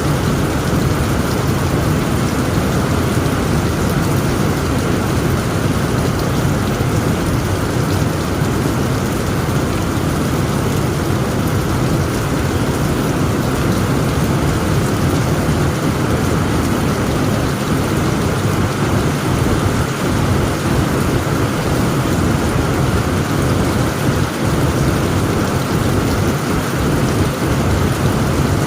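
Heavy rain pouring steadily on a tent roof, with a continuous low rumble underneath.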